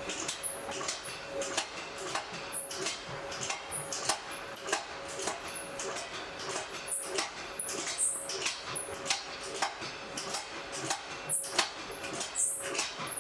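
Forge fire crackling, with irregular sharp pops and snaps from the burning fuel. A faint steady hum runs underneath.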